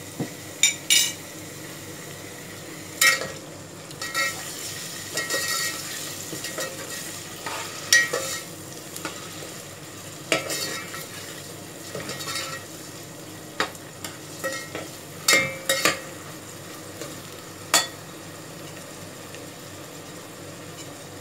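Chicken pieces and green chillies sizzling steadily in hot oil in a metal pot, stirred with a metal spoon that clinks and scrapes against the pot every second or two.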